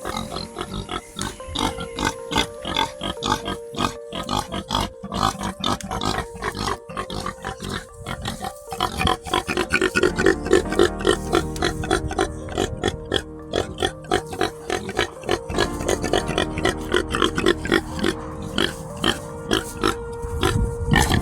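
Pig grunts over background music.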